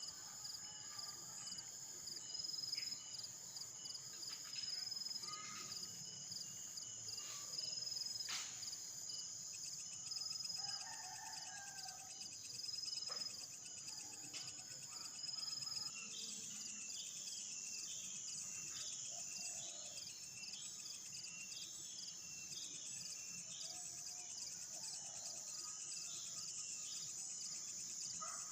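A steady, high-pitched chorus of insects such as crickets or cicadas runs throughout, with scattered bird calls over it. In the second half a bird chirps repeatedly, about once a second.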